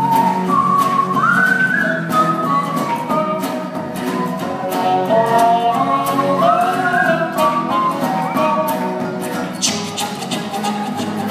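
Live folk band playing an instrumental break: guitars under a melodic lead line that slides up into several of its notes.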